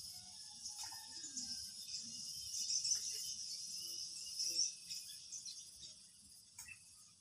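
Steady, high chorus of chirping insects, growing fainter over the last couple of seconds.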